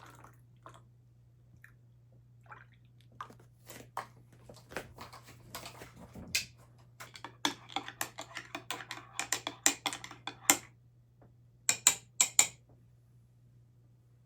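Cutlery and dishes clinking and knocking: a few scattered taps, then a dense run of clatter, then three sharp clinks near the end.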